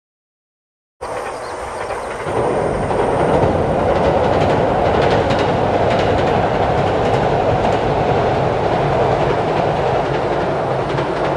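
A limited express electric train crossing a steel girder railway bridge: a steady rumble of wheels on the bridge with rapid rail clicks, starting about a second in and growing louder, then easing off near the end.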